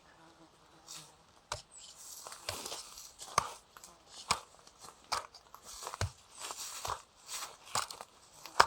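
Irregular crunches and clicks, one or two a second, with rustling between them.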